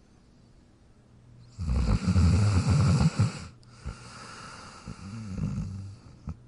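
Sleeping dog snoring: after a quiet start, one loud snore with a rapid flutter comes about a second and a half in and lasts about a second and a half, then a softer snore follows near the end.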